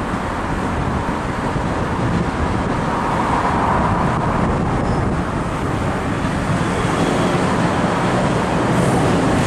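Steady rumble of passing vehicles, growing slightly louder near the end.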